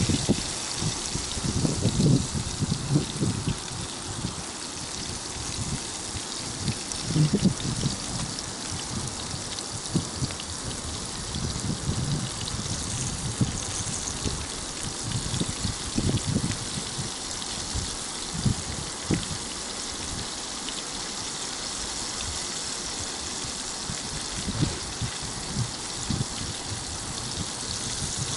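Flour-dredged rotan fish sizzling in hot oil in a frying pan: a steady hiss with irregular low pops and crackles.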